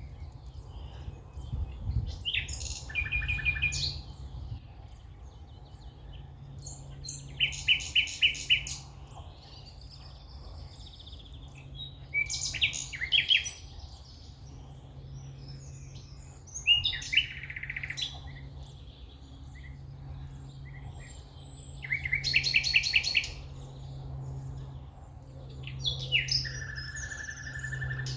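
A songbird singing short phrases of quick repeated notes, six times, one about every four to five seconds, over a steady low hum.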